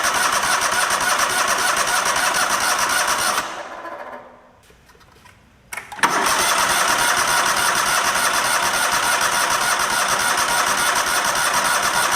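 Electric starter cranking a Kohler Command V-twin lawn tractor engine without it catching, its fuel system still dry after a carburettor rebuild. The cranking stops about three and a half seconds in and winds down, then after a click it starts again a couple of seconds later and cranks steadily until near the end.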